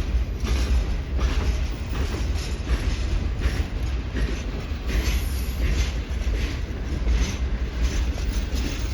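Norfolk Southern Triple Crown RoadRailer train rolling past, its wheels clicking over rail joints at an uneven rate, several times a second, over a heavy low rumble.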